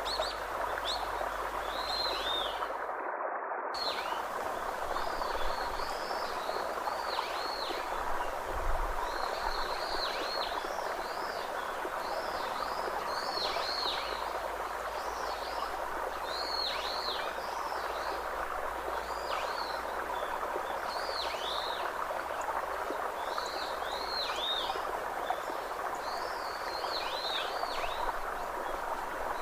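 Birds chirping over and over in short, arching calls, above a steady rushing background noise.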